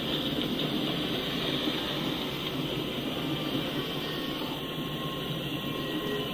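Empty coal hopper cars rolling past: a steady noise of steel wheels running on the rails. About four and a half seconds in, a faint thin squeal from the wheels comes in.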